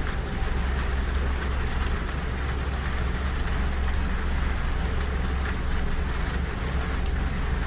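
Rain falling on a train carriage's window over the steady low rumble of the moving train.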